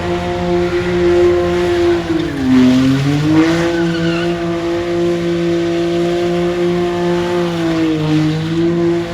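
Car engine held at steady high revs with tyre noise, as in a burnout. The revs dip briefly twice, about two and a half seconds in and again near the end.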